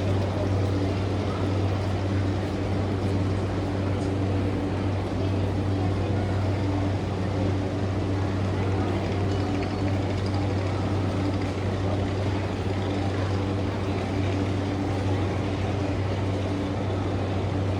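Steady low hum of a standing E235-0 series electric train car (MoHa E235-75), its onboard equipment running with no change in pitch, as the train waits at a terminal platform before moving off.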